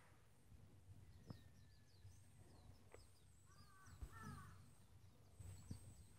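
Near silence, with birds calling faintly: short high chirps throughout and two louder calls about four seconds in.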